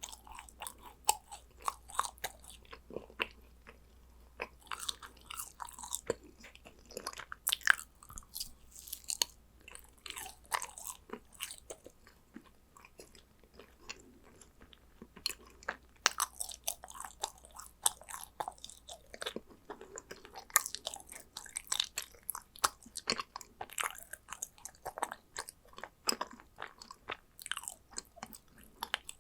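A person chewing and biting yakgwa, dense Korean fried honey cookies, with a steady run of small crackles and mouth clicks that thins out for a few seconds about halfway through.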